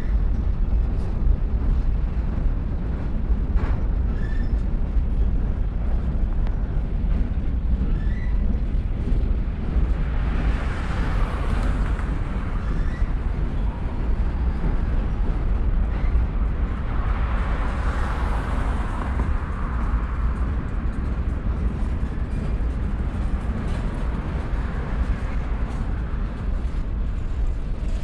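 Freight train of tank cars rolling slowly over a railroad bridge: a steady low rumble, with two swells of louder noise about ten and seventeen seconds in.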